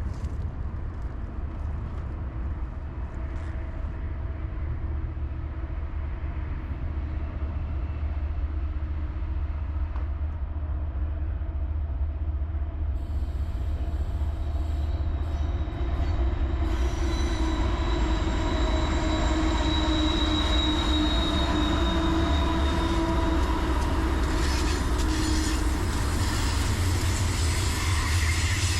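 Freight train rolling by with a steady low rumble that slowly grows louder. Thin, high steel-wheel squeal comes in about halfway through and carries on to the end.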